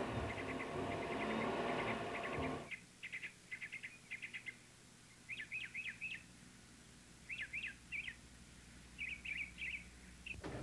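A songbird singing short, quick runs of chirps, a phrase every second or two, over a faint steady low hum. Before that, a duller rumbling noise cuts off abruptly about two and a half seconds in.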